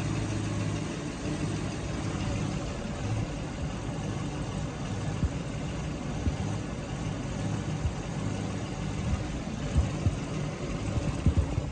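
2010-2015 Chevrolet Camaro 6.2L L99 V8 idling steadily, with a few brief low thumps in the second half.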